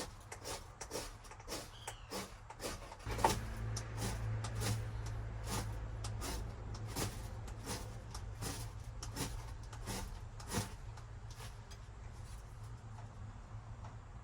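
Repeated scraping strikes of a ferrocerium rod (fire steel) throwing sparks at dry grass tinder, irregular at about one to two a second. A steady low rumble joins about three seconds in.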